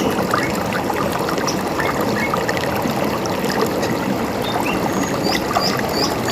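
A river running steadily, with small birds chirping briefly over it, a quick run of high chirps about five seconds in.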